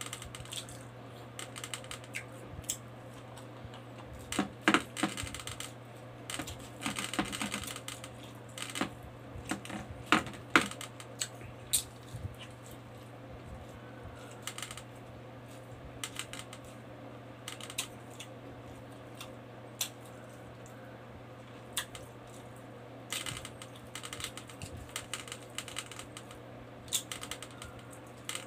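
Chewing and lip smacking while eating rice and pork adobo by hand: irregular short wet clicks and smacks, with a steady low hum underneath.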